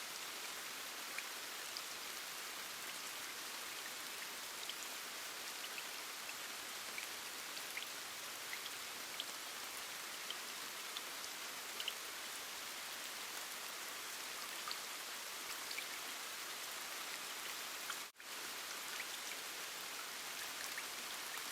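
Steady rain, an even hiss with scattered ticks of single drops. It cuts out for an instant about three-quarters of the way through, then carries on.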